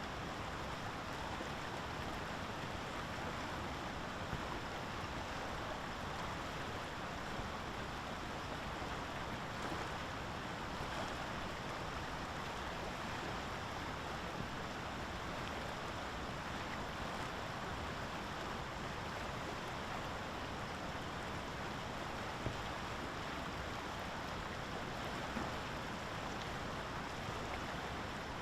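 Steady rushing outdoor noise of water, even and unbroken, with a faint tick or two.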